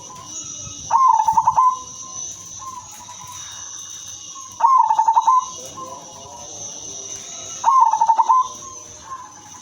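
Female zebra dove of the silver colour form cooing: three loud, rapidly pulsed coo phrases about three seconds apart, with fainter calls between them. A steady high-pitched background tone runs throughout.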